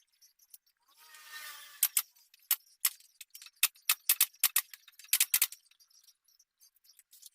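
A short scraping sound, then a quick run of sharp clicks and knocks, like small hard items or tools being handled, which stops about five and a half seconds in.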